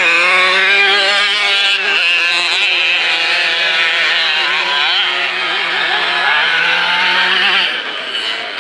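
Several motocross bike engines revving hard together as the riders accelerate along the track, their pitches rising and falling and overlapping. The noise eases off a little near the end.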